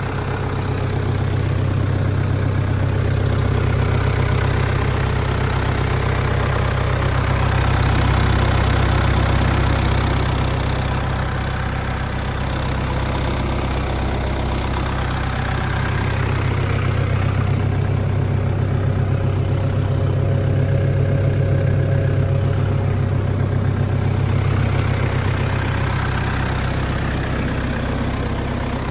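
New Holland TC40DA compact tractor's diesel engine running steadily, its low drone swelling slightly louder twice along the way.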